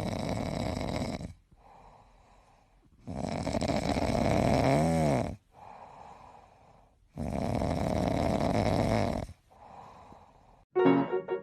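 A sleeping pet snoring: three loud rasping in-breath snores about four seconds apart, each followed by a softer out-breath.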